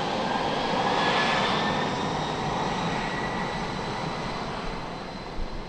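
Jet engines of a departing Boeing 757 airliner at takeoff power, with a faint rising whine over the roar. It is loudest about a second in and slowly fades.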